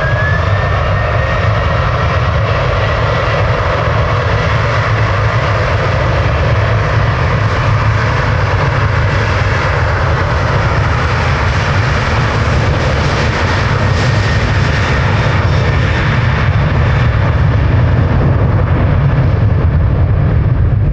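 Jet airliner engines running at high power, a loud steady roar with a high whine that finishes rising as it begins and then holds steady.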